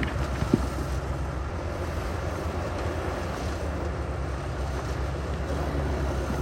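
Heavy diesel earthmoving machinery running steadily with a low engine drone, and one sharp knock about half a second in.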